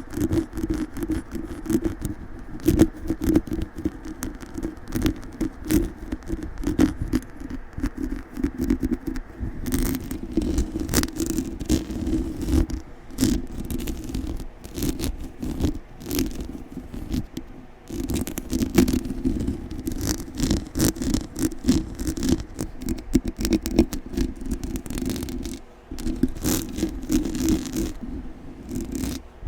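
Aggressive scratching directly on a microphone: a fast, continuous run of loud scrapes and crackly clicks with a heavy low rumble, broken by a short pause near the end.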